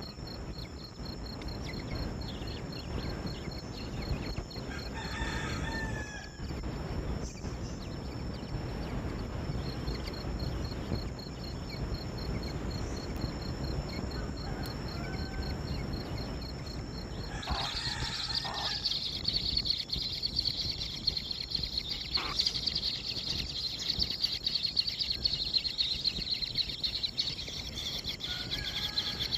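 Steady insect chirring outdoors, turning much louder just past halfway, with a low rumble of background noise and a few short bird calls, the clearest two near the start and at the point where the chirring swells.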